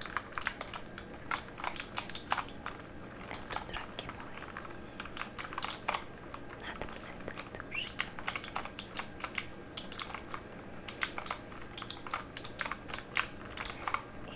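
Typing on a mechanical keyboard: quick runs of crisp key clicks, broken by short pauses between runs.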